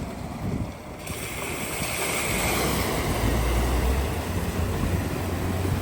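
Vehicle moving off: a low engine hum under a broad rushing noise that swells about a second in and stays loud.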